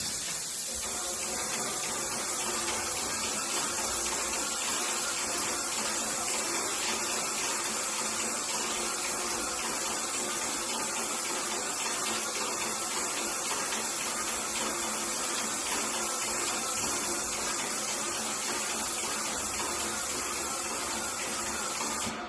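Airless sprayer spraying wallpaper glue onto a wall: a steady hiss of spray over the hum of the sprayer's pump, cutting off near the end.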